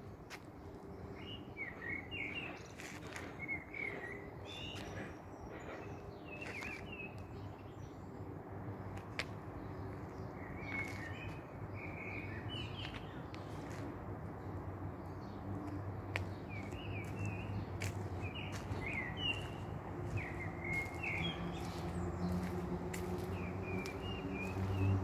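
Small birds chirping in short repeated phrases over a steady low background hum, with a few sharp clicks; the hum grows louder near the end.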